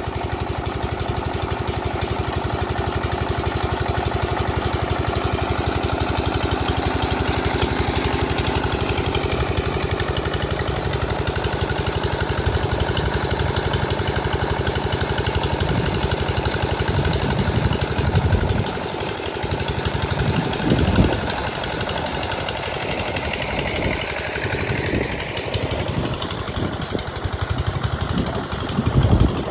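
8 hp diesel engine of a water pump set running steadily with a fast, even chugging beat. Irregular low thuds and rumbles come in over it from about halfway through.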